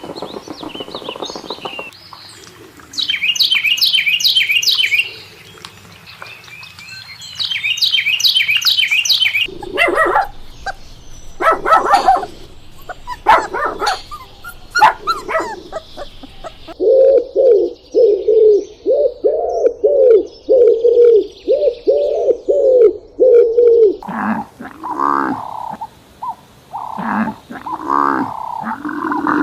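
A sequence of different animal calls: two bursts of high chirping trills, then a run of sharp barks, then a fast string of repeated calls.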